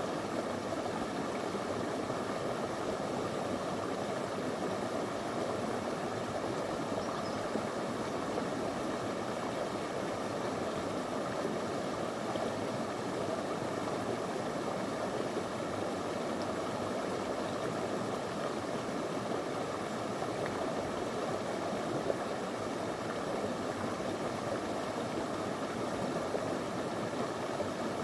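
Shallow river flowing over stones, a steady unbroken rush of water.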